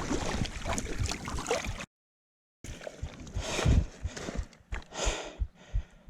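River water splashing and sloshing close to the microphone as an angler struggles in the shallows, cut off abruptly. After a moment of dead silence, heavy breathing and gasps follow, with soft low thumps between the breaths.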